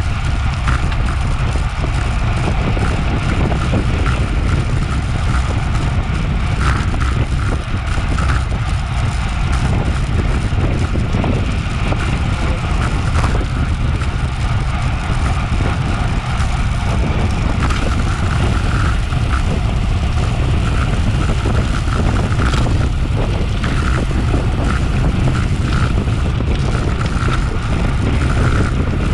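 Steady wind rush buffeting a bike-mounted action camera's microphone during a bicycle road race, with a low rumble and scattered small ticks.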